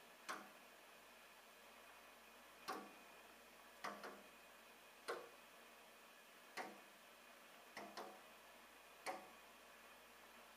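A bird pecking at a window pane: sharp single taps at uneven gaps of about a second, a few coming in quick pairs.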